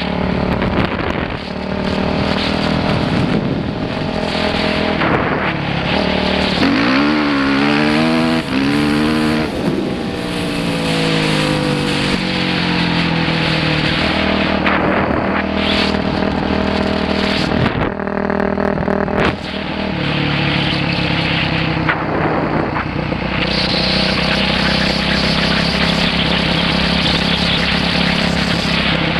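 Dirt bike engine running continuously, its pitch rising and falling with the throttle, with a run of quick rises and falls about a quarter of the way in.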